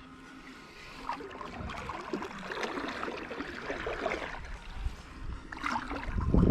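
Kayak paddle strokes in calm lake water: blades dipping and splashing, with water trickling and dripping off the paddle. The strokes pick up from about a second in.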